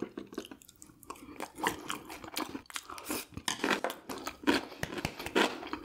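A person chewing food close to the microphone: a fast, uneven run of short wet mouth clicks and smacks.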